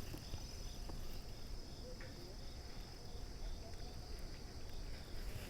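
Insects calling outdoors, likely crickets: a steady high trill, with a second insect chirping in a regular pulse just below it, over a low rumble.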